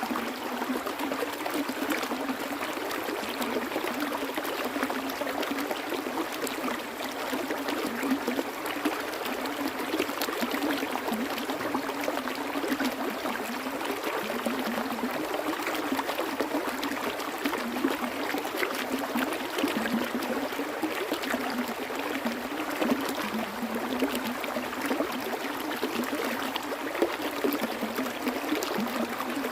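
Water flowing steadily in a stream, a continuous rushing and trickling with small irregular splashes.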